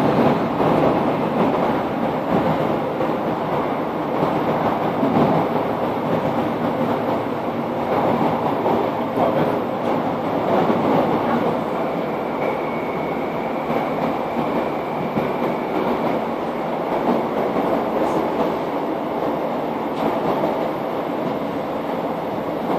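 Passenger train running along the line, heard from inside the carriage: a steady rumble and rush of wheels on rail. A faint high whine rises above it for a couple of seconds about halfway through.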